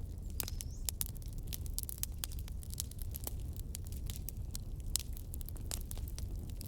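Wood fire burning in a fireplace: irregular sharp crackles and pops over a steady low rumble of the flames, with a brief rising whistle about half a second in.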